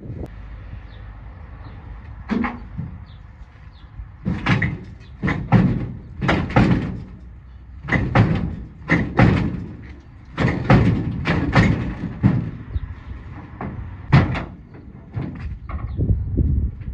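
Heavy banging on steel, about fifteen irregular blows with a short metallic ring after each. This fits hammering on the truck's frame hardware.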